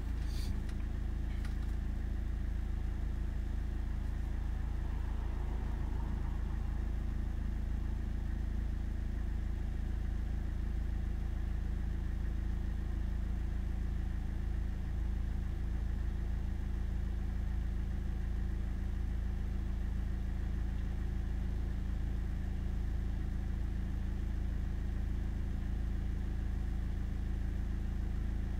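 Car engine idling steadily while stationary, heard from inside the cabin as a constant low hum with a few steady tones.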